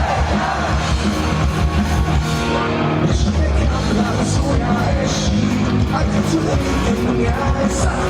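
Live punk rock band playing loudly, with electric guitars, drums and singing.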